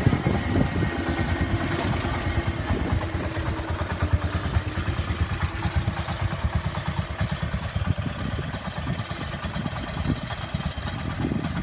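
Freshly rebuilt Kohler K321 single-cylinder engine of an early-1970s John Deere 140 garden tractor running steadily, with quick, even firing pulses.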